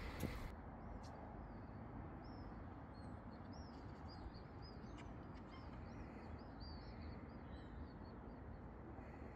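Small birds chirping: a long run of short, high chirps, several a second, over a low steady outdoor hum. Footsteps on cobblestones stop in the first half second.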